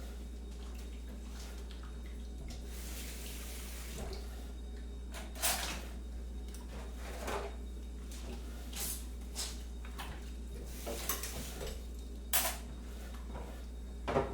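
Kitchen sounds over a low steady hum: water runs briefly, then crockery and utensils clink and knock about seven times.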